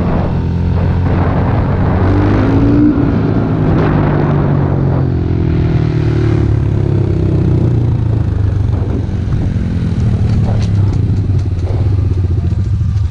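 Pit bike engine running steadily under throttle while riding, with a brief rise in pitch about two to three seconds in and some light clatter near the end.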